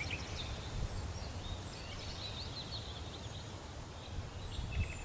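Faint nature ambience: small birds chirping and trilling over a low, steady rumble.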